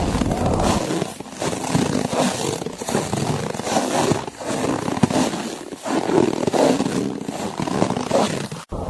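Snow crunching and squeaking underfoot in irregular steps, over the rush of blizzard wind. The sound cuts out for an instant near the end.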